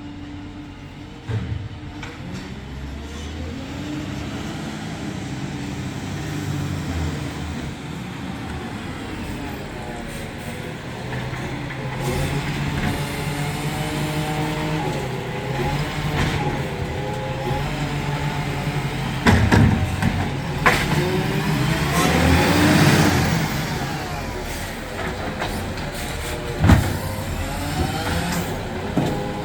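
Garden waste collection truck's engine running and revving up and down, with sharp bangs about two-thirds of the way in and again near the end, and a rushing hiss between them.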